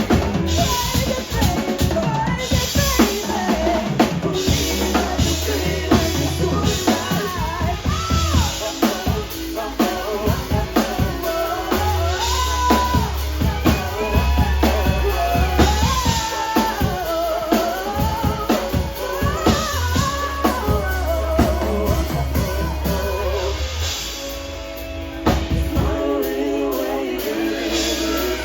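Live band music with a full drum kit, bass and a wavering lead melody line. About 24 seconds in the drums drop away, leaving held chords.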